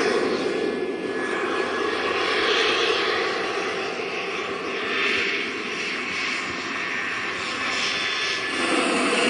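Small gas turbine of an RC model helicopter running: a steady jet rush with faint steady tones, swelling and easing gently and growing louder again near the end.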